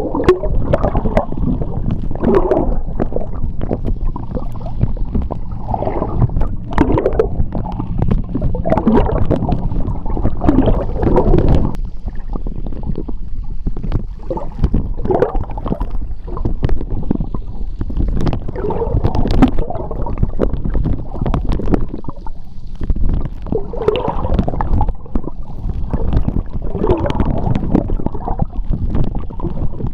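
Seawater heard underwater: a constant deep rumble of moving water with bubbles gurgling in repeated surges every second or two, easing off briefly a couple of times.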